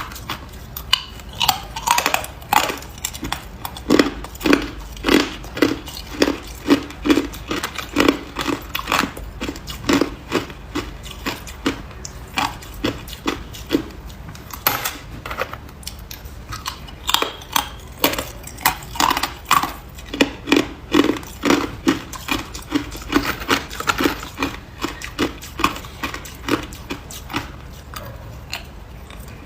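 A person biting and chewing hard ice close to the microphone: a steady run of sharp, crackling crunches, about one or two a second, with a couple of short lulls.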